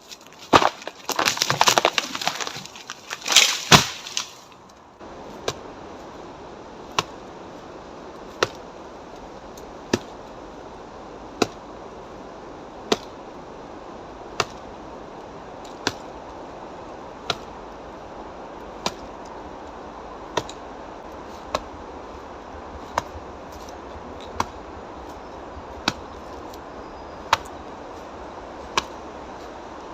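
Dry dead wood cracking and breaking under karate strikes for the first few seconds, then single sharp knocks on a tree trunk about every second and a half, evenly spaced.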